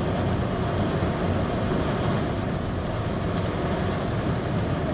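Heavy rain falling steadily on a car's roof, heard from inside the cabin.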